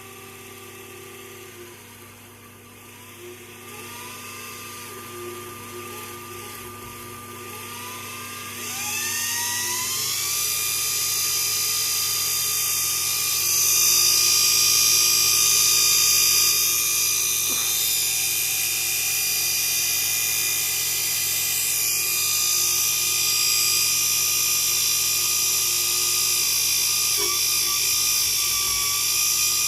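Vacuum cleaner motor converted to permanent magnets, spinning up with a rising whine over the first ten seconds or so and then running steadily at speed with a high whine and rushing hiss.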